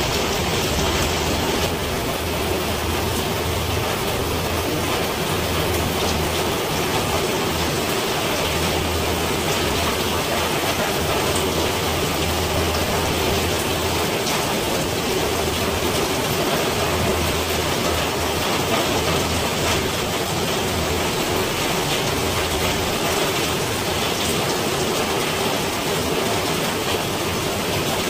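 Steady rain falling, an even hiss, with a low rumble underneath that swells and fades every few seconds.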